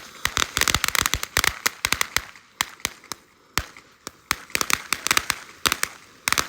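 Firecrackers going off in a rapid, irregular string of sharp pops. The pops thin out in the middle and pick up again near the end.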